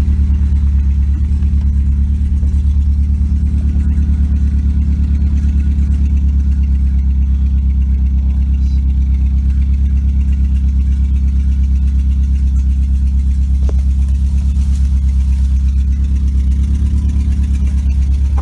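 A Honda CR-V's engine running steadily with a loud, low, evenly pulsing drone, while the car is kept going with its oil gone.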